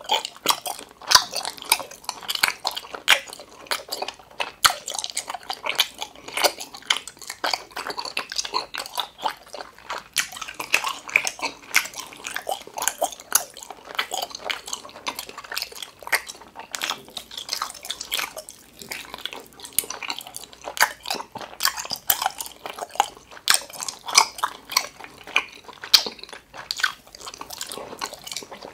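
Close-miked chewing of gummy jelly octopus candy: a dense run of short wet mouth clicks and smacks, several a second.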